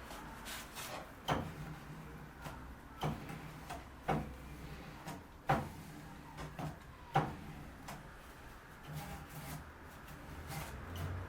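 Irregular wooden knocks and taps, with about five louder knocks among lighter ones, over a low steady hum.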